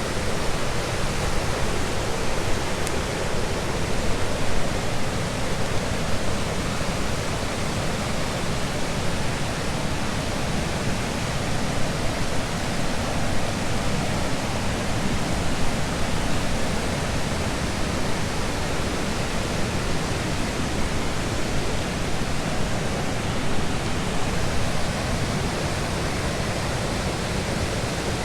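Waterfall: river water rushing steadily over the falls, a dense even noise with no breaks.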